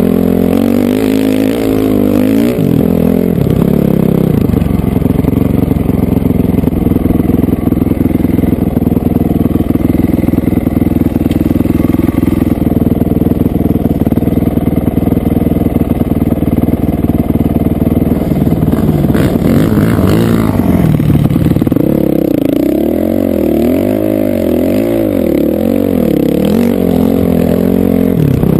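Honda CRF450R single-cylinder four-stroke dirt bike engine being ridden hard. The revs shift in the first few seconds, hold steady at speed for most of the time, then rise and fall repeatedly near the end.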